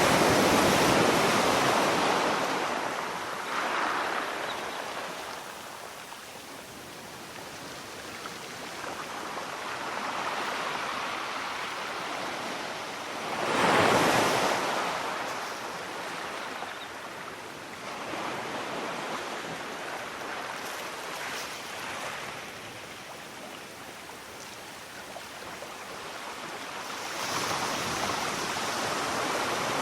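Sea waves breaking and washing back in slow swells, loudest at the very start and with a sharp peak about halfway through, building again near the end.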